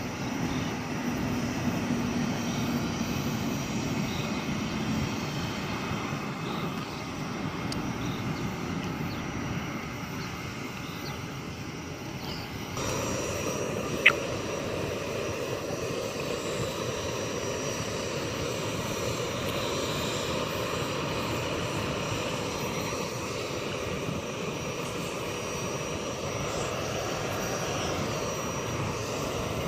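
Steady rush of a jet airliner's engines at a distance. The sound steps up abruptly about 13 seconds in, and there is one sharp click a second later.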